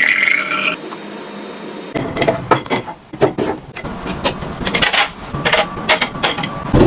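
Household items being handled and set down: a quick run of sharp clicks, taps and light knocks, like plastic containers and packaging knocking together. It opens with a brief rising squeak that fades out within the first second.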